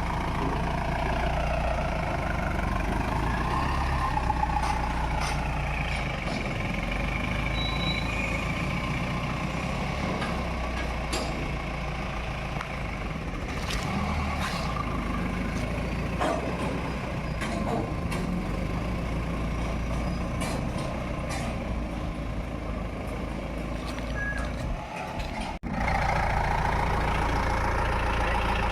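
Mahindra pickup engine running steadily on the move, with scattered short clicks and rattles. Near the end the sound dips for a moment, then comes back slightly louder.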